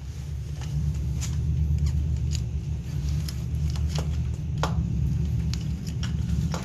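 Light clicks and taps of small parts being handled during hand work on an ATV, scattered at irregular intervals over a steady low rumble.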